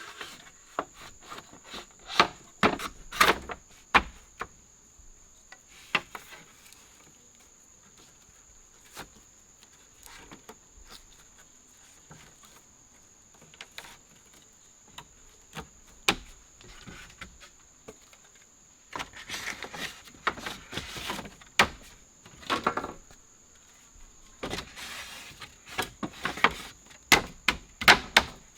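Steady high-pitched insect trill, with scattered sharp clicks and knocks and two longer bursts of rustling in the second half.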